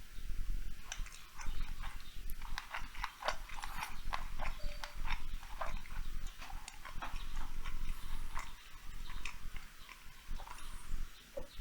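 Close-up wet chewing and mouth smacking while eating sushi rolls, irregular crisp clicks and smacks several times a second, picked up by a lapel microphone.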